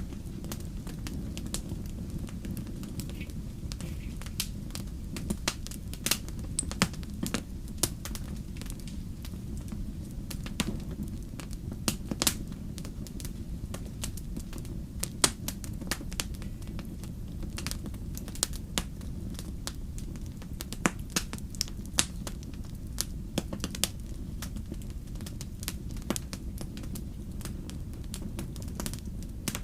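A fire crackling, with irregular sharp pops and snaps, a few louder than the rest, over a steady low rumble.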